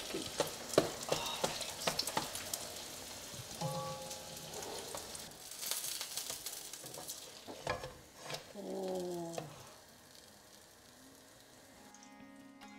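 A stuffed egg paratha shallow-frying in hot oil, with a steady sizzle and many sharp crackles. The frying fades out about ten seconds in, and sitar music starts near the end.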